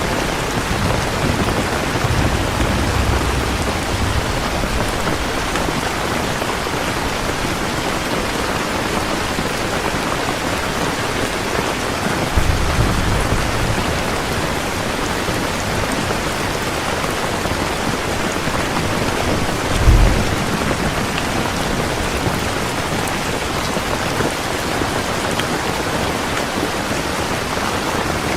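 Heavy rain falling steadily, with low rolls of thunder a few seconds in and again near the middle, and a short low thud of thunder about two-thirds of the way through.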